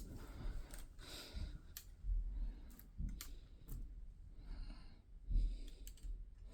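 Scattered light plastic clicks and handling knocks as K'nex toy pieces are picked up and moved, with a couple of breaths.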